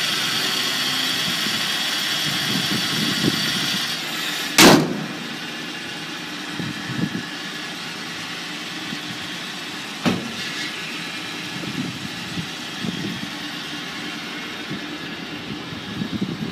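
A car engine running steadily. About four and a half seconds in there is a loud thump, after which the sound is quieter, with a second, smaller knock about ten seconds in.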